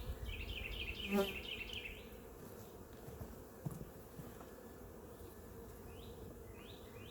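Honeybees buzzing around an open hive, a steady hum. A bird's repeated chirps come over it in the first two seconds and again near the end.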